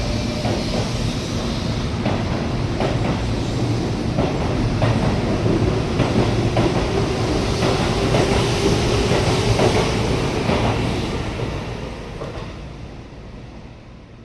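Keihan electric train running, heard from inside the car: a steady rumble with a faint motor hum and wheels clicking over rail joints. The sound fades away over the last few seconds.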